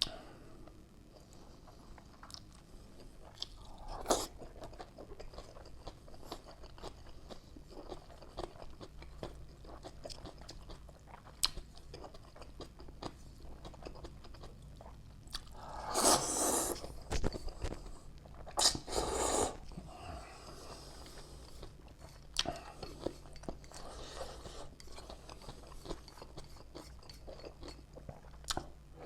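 A person eating ramen close to the microphone: chewing and smacking with many small clicks, and two louder stretches of about a second each a little past halfway through.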